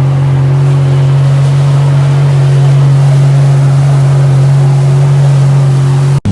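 Jet ski engine running at a steady speed: a loud, even hum that holds one pitch, over a wash of water and wind noise. It breaks off abruptly near the end.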